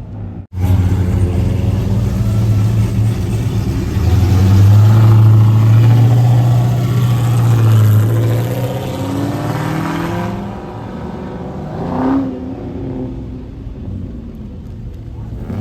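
A car's engine running loud and close as it pulls out, building about four seconds in, then rising in pitch as it accelerates away and fades. A shorter rise in engine pitch follows about twelve seconds in.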